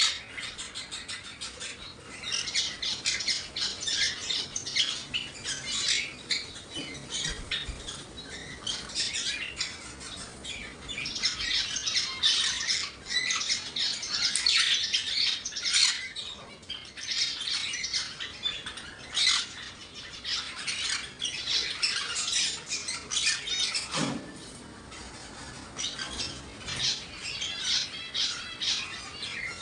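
Many caged pet birds chattering and squawking together, a dense, unbroken stream of shrill calls and chirps.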